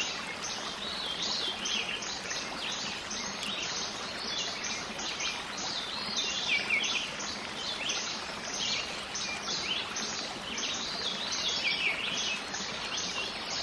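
Many birds chirping over a steady hiss of outdoor background noise, short falling chirps coming several times a second; it cuts off suddenly at the end.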